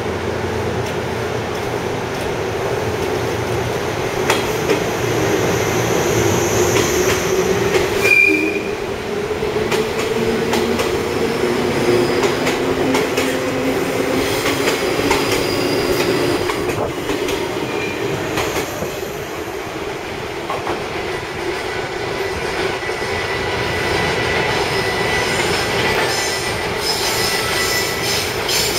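JNR 183 series electric train moving through the station, a steady rolling rumble of wheels on rail with rail-joint clatter and high-pitched wheel squeal.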